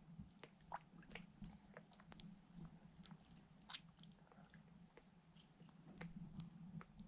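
Faint, scattered crunching clicks of a person chewing snow, the loudest a little over halfway through, over a low steady hum.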